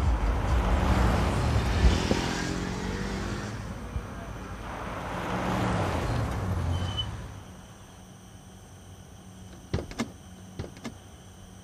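Chevrolet Beat hatchback engine running as the car pulls in, rising and easing off twice, then falling quiet about seven seconds in as it stops. A few short sharp clicks follow near the end.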